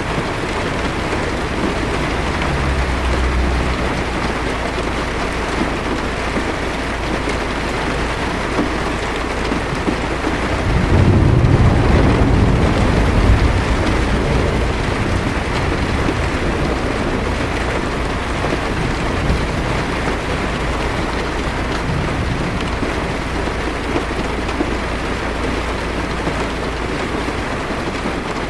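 Heavy rain pattering steadily on a car's windshield and roof, heard from inside the car. A low roll of thunder swells about eleven seconds in and dies away over a few seconds, with a fainter rumble near the start.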